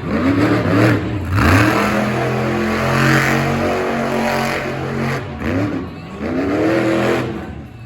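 Monster truck engine revving hard during a freestyle run, its pitch sweeping up several times in quick bursts, held at high revs in between, then dropping away near the end.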